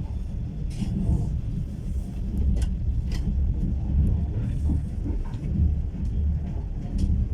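Steady low rumble of a passenger train car, with a few short clicks and rattles.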